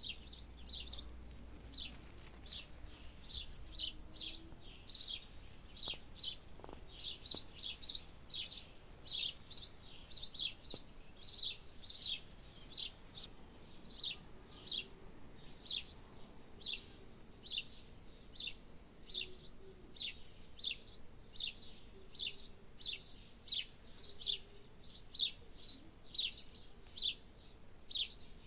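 A small bird chirping over and over: short, high, falling chirps, about two a second, at an even pace throughout.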